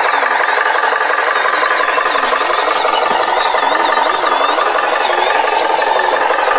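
Engine running steadily, with a rattle and a faint tone that wavers slowly up and down.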